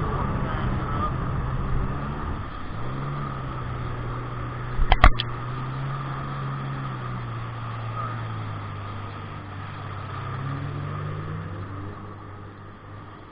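Kawasaki 1200 jet ski engine running at low speed; its pitch drops a few seconds in and sinks lower toward the end as it slows. A single sharp knock about five seconds in.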